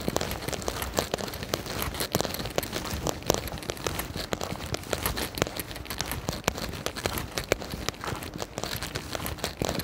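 Close, crackling and rustling noise of walking in the rain, with many irregular sharp ticks of raindrops and wet steps on slushy ground.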